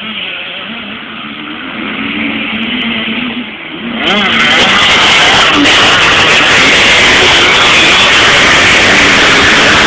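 Motocross bike engines revving and wavering in pitch, muffled at first. About four seconds in the sound turns suddenly much louder and harsher and stays that way.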